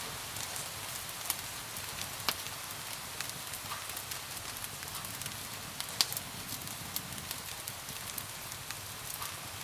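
Wood fire crackling with irregular sharp pops, the loudest about two seconds in and again about six seconds in, over a steady hiss of rain against window glass.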